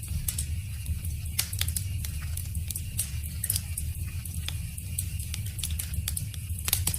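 Wood fire crackling: irregular sharp pops and snaps over a steady low rumble, with a louder pop near the end.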